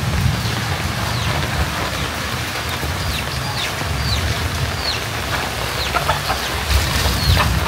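Birds chirping: short, high, falling peeps repeating from about three seconds in, over a steady low rumble.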